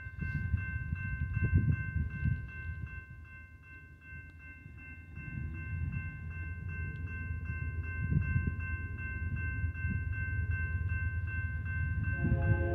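Low rumble of an approaching BNSF intermodal freight train, swelling and fading, with a steady high-pitched ringing pulsing over it. Near the end the lead locomotive's air horn begins to sound.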